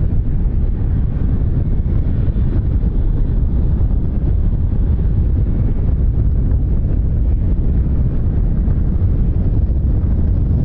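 Wind buffeting the microphone: a loud, steady, gusty low rumble.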